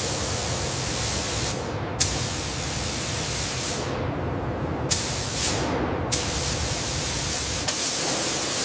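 A steady, dense spraying hiss, broken by sharp clicks about two, five and six seconds in, where it starts afresh.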